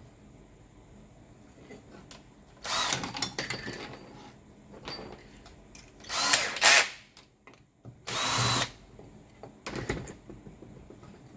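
Power drill-driver run in four short bursts, each about half a second to a second long, the motor whine rising as each burst starts.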